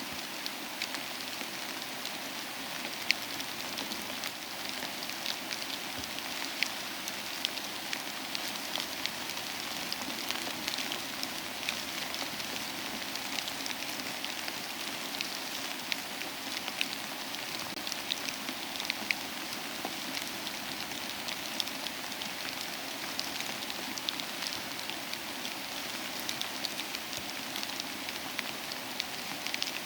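Steady soft rain with a wood fire crackling in a fireplace: an even hiss of rain dotted with frequent small, sharp crackles.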